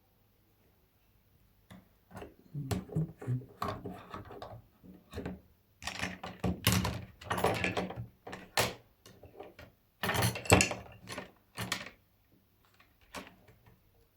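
Phone parts and small tools handled on a workbench: a run of clicks, knocks and clatters, loudest in two clusters in the middle, with quiet at the start and the end.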